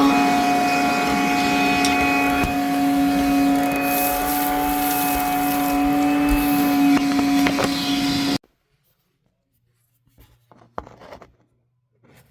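Vacuum cleaner running steadily with a fixed-pitch whine, sucking soot out of an oil boiler during its service, then switched off suddenly about eight seconds in. A few faint knocks and handling sounds follow.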